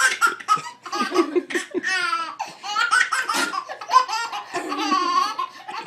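A baby laughing in a long run of short, choppy laughs.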